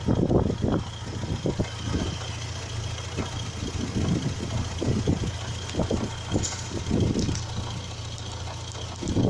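Triumph Spitfire 1500's four-cylinder engine idling shortly after a cold start, a steady low hum broken by irregular louder pulses.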